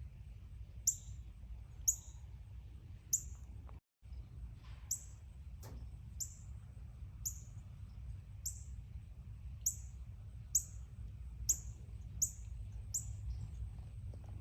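A songbird repeating a single short, high chirp about once a second, over a low steady outdoor rumble. The sound drops out briefly about four seconds in.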